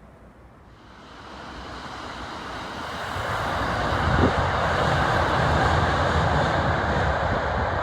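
A train approaching and running across a railway bridge: a rushing rumble of wheels on rails that builds over about three seconds and then stays loud, with one sharp knock about four seconds in.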